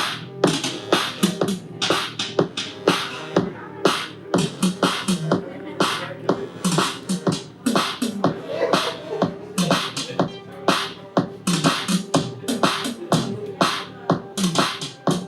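Electronic music with a busy, rhythmic beat: a rapid run of sharp clicks and percussive hits over short bass tones that slide down in pitch.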